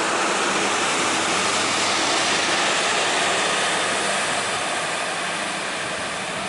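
Train rolling past, a steady rumble and rush of wheels on rails that peaks about two seconds in and then slowly eases off.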